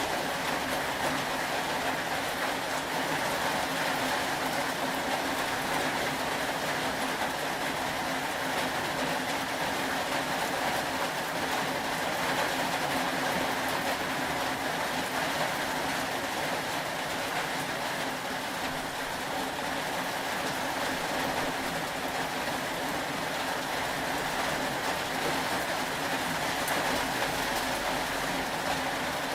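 Steady rain, an even hiss that holds at the same level throughout.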